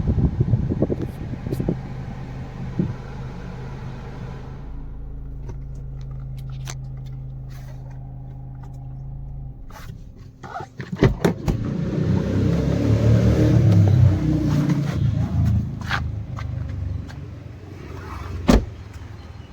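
Ford EcoSport's 1.5-litre four-cylinder diesel engine idling as a steady low hum, with no unwanted noise by the seller's account. Partway through come a few clicks and knocks and a louder, rougher stretch of engine sound, then one sharp knock near the end.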